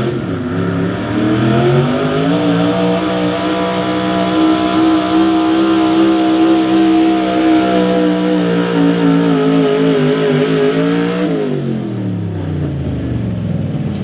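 Small-block V8 pulling truck at full throttle dragging a pulling sled. The revs climb about a second in, hold high and steady for most of the run, then fall away near the end.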